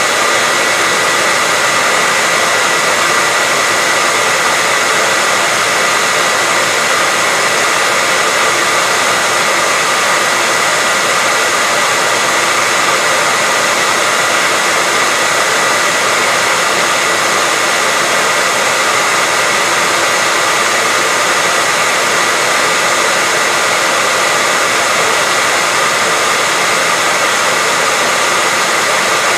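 Hairdryer blowing steadily: an even, unbroken rush of air and motor with a steady whine near the top of the sound.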